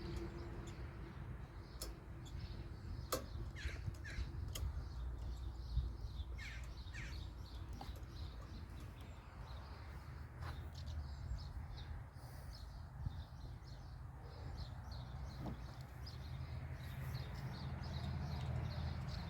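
Crows cawing now and then, with scattered light clicks of small metal parts being handled over a low steady rumble.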